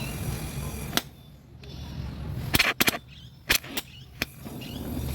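Several sharp knocks: a quick cluster about two and a half seconds in, then three more over the next second and a half, over a low hum that drops away about a second in and returns near the end.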